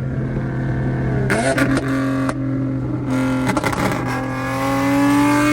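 Nissan Z's VQ V6 engine running at raised revs, its pitch jumping up about a second and a half in, then climbing steadily over the last second and a half as it is revved harder.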